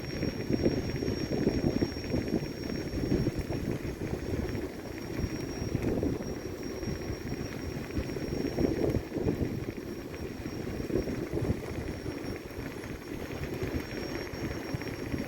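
Low rumbling outdoor noise that rises and falls unevenly, with a faint steady high-pitched whine over it.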